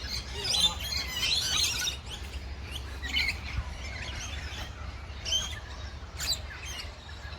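A flock of small aviary birds chirping and tweeting: a dense burst of overlapping chirps for the first two seconds, then scattered single calls.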